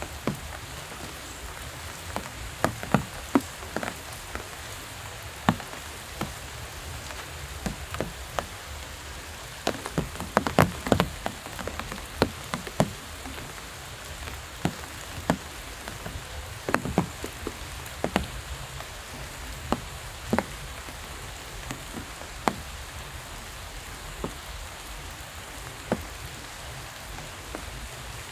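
Steady rain falling, a constant hiss with irregular sharp taps of heavier drops striking a surface, coming thickest about ten seconds in.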